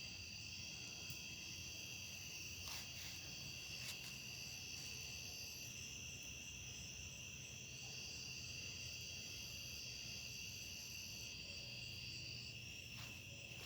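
Night-time insect chorus of crickets trilling steadily at several different high pitches. One voice drops out for a couple of seconds midway, and a couple of faint clicks come in the first few seconds.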